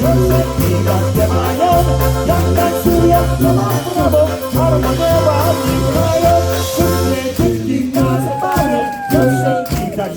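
Live polka band playing an instrumental break, with accordion over a pulsing oom-pah bass. About eight seconds in the bass drops out and a sliding, held melody note carries on.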